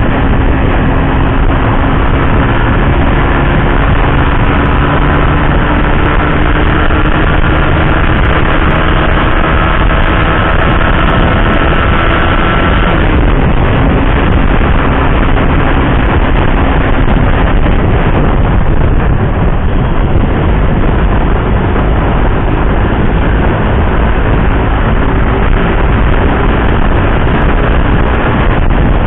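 Suzuki GSX-R150's single-cylinder engine running while riding, mixed with heavy wind rush. The engine note creeps slowly upward, then shifts about halfway through.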